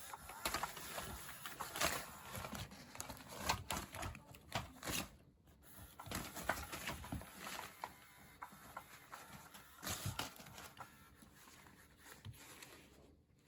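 Kittens playing with toys: an irregular patter of small clicks, taps and rustles, dying down near the end.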